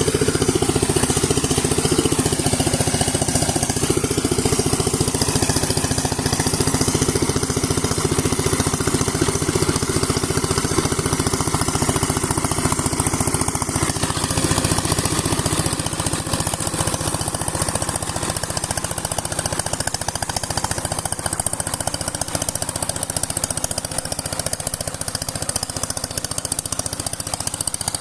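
Sifang power tiller's single-cylinder diesel engine running steadily with a rapid, even chugging, a little quieter in the second half.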